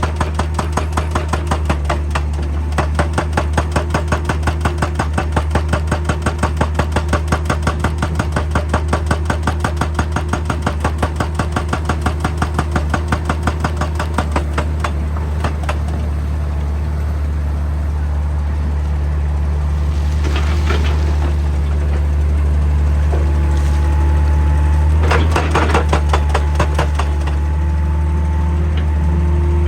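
Excavator-mounted hydraulic rock breaker hammering rock with rapid, even blows, stopping about halfway through. The excavator's diesel engine keeps running with a steady low drone and a thin hydraulic whine, broken by two brief noisy bursts near the end.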